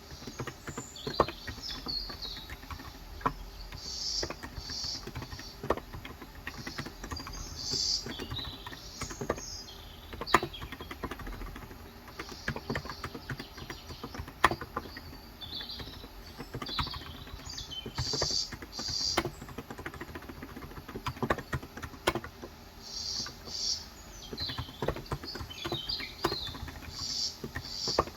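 Steady, irregular typing on a COX Endeavor tenkeyless keyboard with 35 g electrostatic capacitive (contactless) switches, keystrokes clacking several times a second. Birds chirp intermittently in the background.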